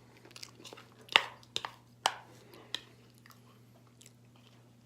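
Eating oatmeal: a handful of short, sharp clicks and smacks from the spoon and mouth, about one to three seconds in, over a faint steady hum.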